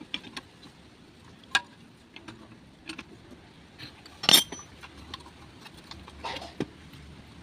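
Scattered metallic clinks and knocks, the loudest a sharp clank about four seconds in: tools and metal parts handled while fitting a pulley onto a twin-tub washing machine's spin-dryer motor.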